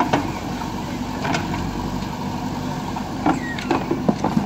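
Heavy construction machine's diesel engine running steadily, with a few sharp knocks or clanks, most of them near the end.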